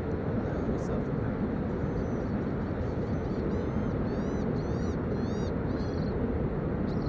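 Steady low rushing noise. About halfway through, a bird chirps a quick run of short high notes.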